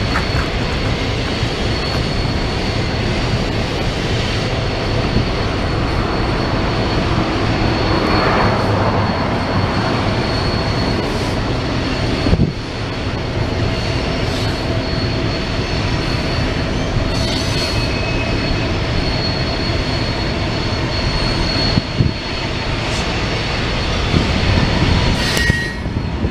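Freight train cars rolling past on the rails: a steady, loud rumble and clatter with a thin, high wheel squeal held over it. Sharp knocks come twice, about midway and near the end.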